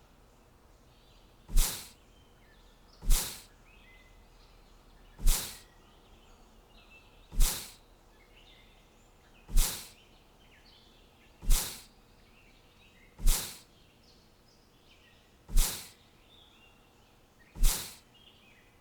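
Faint bird chirping and twittering, broken about every two seconds by a loud, sharp sound that fades within about half a second, ten times in all.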